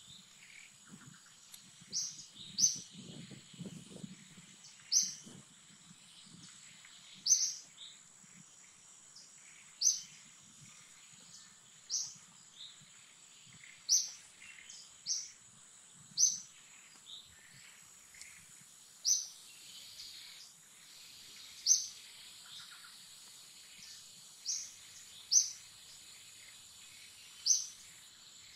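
A forest bird repeating a short, high call about every two seconds, sometimes two in quick succession, over a steady high-pitched insect drone.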